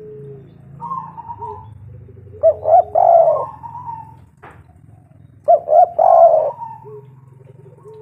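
Spotted dove cooing: two loud, rolling coo phrases about three seconds apart, with softer coos before and between them.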